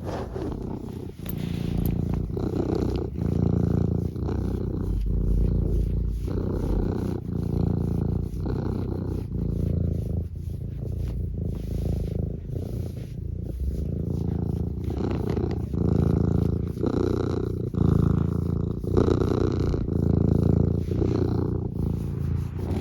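Tabby cat purring steadily and close up, in even pulses of a little over one a second as it breathes in and out.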